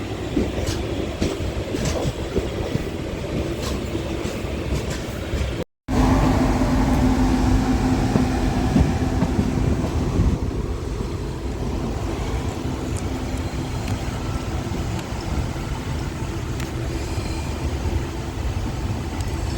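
Passenger train coach running along the track, heard from inside: a steady low rumble with regular clicks of the wheels over rail joints. The sound drops out for a moment about six seconds in and comes back louder.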